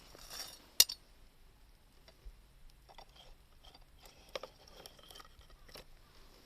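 Wood campfire crackling: one sharp, loud pop a little under a second in, then scattered small snaps.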